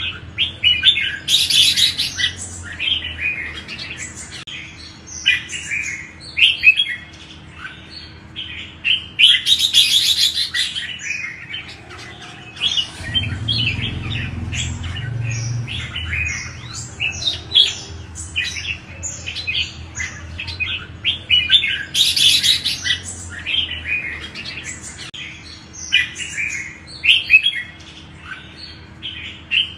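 Red-whiskered bulbul singing: a steady run of short, quick chirping phrases. Louder, harsher chattering bursts come about four times. A low rumble sits under the song near the middle.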